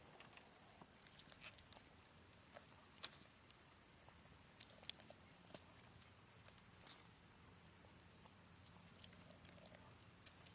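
Near silence, with faint scattered clicks and light taps and a few short, faint high chirps.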